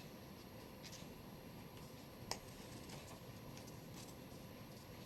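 Near silence: quiet room tone, with a faint click about a second in and one sharp click a little over two seconds in.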